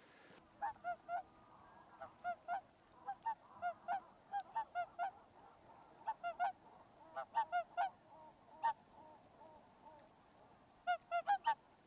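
Geese honking: many short calls, singly and in quick runs of two to four, with a short lull shortly before the end.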